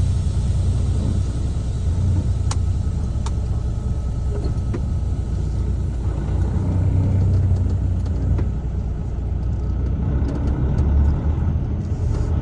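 Steady low rumble of a truck being driven, engine and road noise together, with a few faint clicks.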